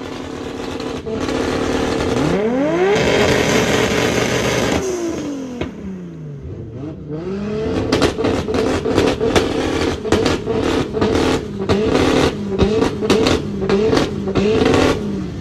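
A performance car engine revved up and back down, then held on a two-step launch-control rev limiter. From about eight seconds in it gives rapid sharp pops and bangs over a steady engine note.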